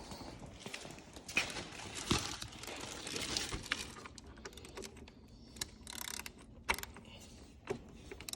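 Scattered light clicks and rustling as hands handle tools and parts in an engine bay, with no engine running.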